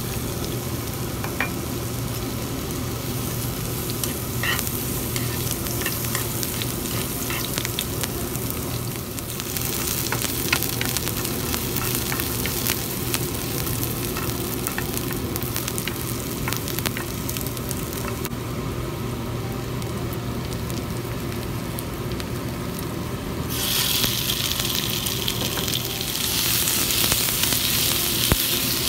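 Sliced shallots sizzling and crackling in hot oil in a nonstick frying pan, stirred with a wooden spatula. About 23 seconds in the sizzle grows louder and brighter, with minced chicken frying in the pan too.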